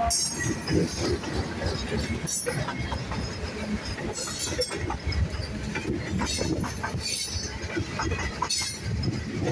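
Norfolk Southern freight train rolling past close by: the last diesel locomotive, then loaded open-top hopper cars. The wheels give a steady rumble with irregular clanks and knocks, and brief high-pitched screeches now and then.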